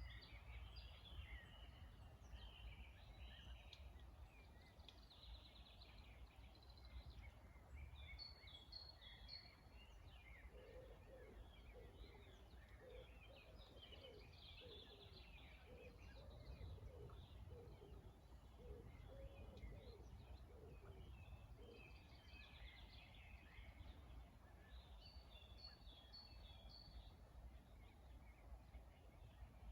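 Faint chorus of songbirds, many short chirps and quick repeated trills from several birds, over a steady low rumble. Through the middle a run of lower, throatier notes joins in.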